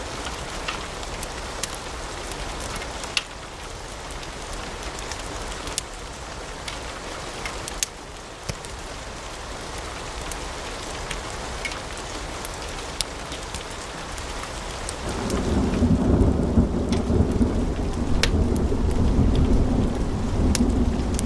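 Wood fire in a fireplace crackling, with frequent sharp pops and snaps over a steady hiss. About fifteen seconds in, a deep low rumble rises and keeps going under the crackling.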